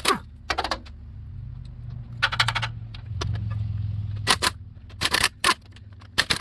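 Lug nuts being removed from a truck wheel: sharp metallic clinks and a short rattle of rapid clicks about two seconds in, over a low hum that swells through the middle.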